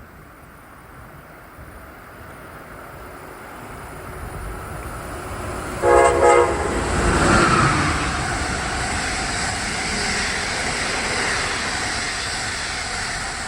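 Freight train approaching and passing: its rumble builds steadily, its horn gives two short blasts about six seconds in, and the noise of the passing cars then holds steady before it starts to fade near the end.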